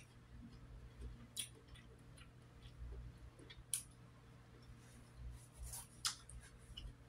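Faint chewing and wet mouth clicks of a person eating grapes, with a few sharp short clicks spread through, over a low steady hum.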